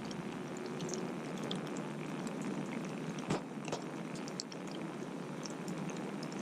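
Campfire (a long log fire) crackling steadily over a soft hiss, with many small pops and one sharper crack about three seconds in.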